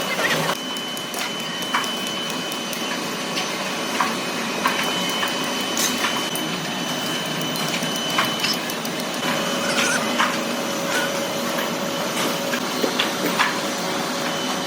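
Heavy workshop machinery running steadily with a high, constant whine, over a bed of noise, with scattered sharp metallic clicks and knocks.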